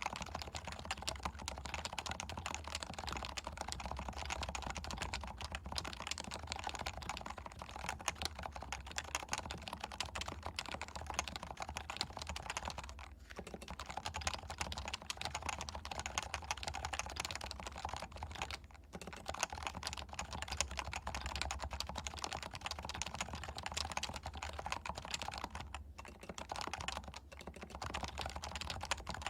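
Steady typing on a Leopold FC660C with stock, non-silenced 45 g Topre electrostatic-capacitive switches: a fast, dense run of soft keystrokes with brief pauses a little under halfway through, about two-thirds of the way in, and again near the end. Recorded through a Shure MV7 microphone.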